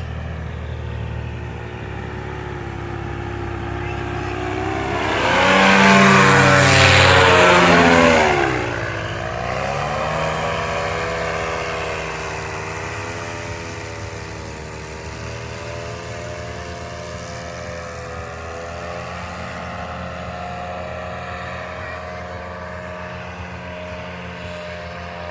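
Radio-controlled model airplane's motor and propeller buzzing in flight, making a low pass: it grows loud, then its pitch drops sharply as it goes by, and it carries on more quietly with the pitch wavering as it circles.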